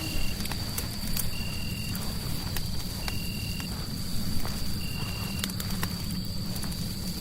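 Fireplace crackling over a steady low rumble, with scattered sharp pops. A short high chirp repeats about every second and a half to two seconds over a faint steady high tone.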